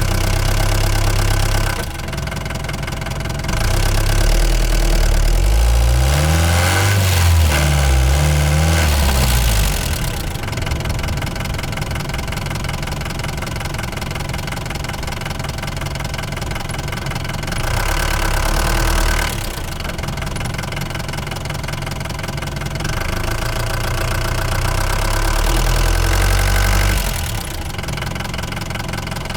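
Ford Transit Mk5 van engine running on the move, getting louder and quieter as it pulls and eases off, with the revs rising and falling a few times between about six and nine seconds in.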